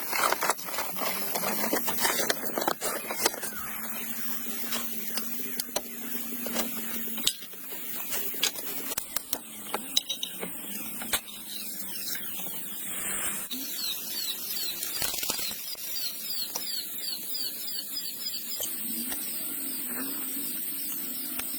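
Heavy rain falling as a steady hiss, with sharp ticks and knocks of drops striking close by. In the second half a run of quick, repeated high squeaky chirps sounds over it.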